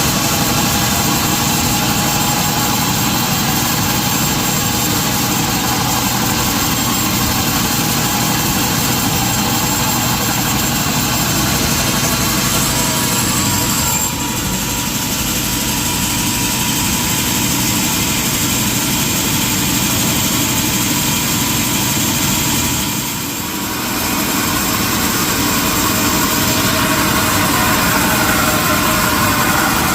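Sawmill machinery running steadily, a loud dense mechanical noise with two brief dips in level, one near the middle and one about three-quarters through.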